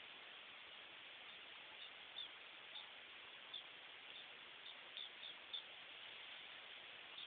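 Faint, short high chirps of small birds, about eight of them, mostly between two and six seconds in, over a steady hiss.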